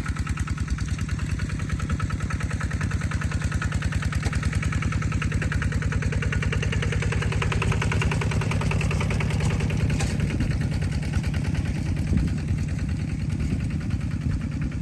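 A small engine running steadily at idle, with a fast, even beat.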